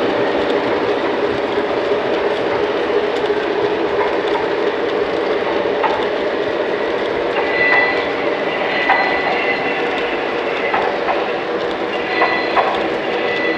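Lionel O gauge model train running on three-rail track: a steady rumble of wheels and motors with clicks over the rail joints, and a few short high squeals in the second half.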